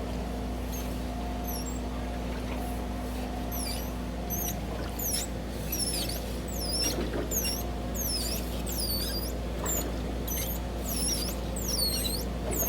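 Joroto exercise machine running with a steady low hum and a repeating high-pitched squeak, about two squeaks a second, getting stronger from about four seconds in. This is the noise the owner reports as returning after reassembly.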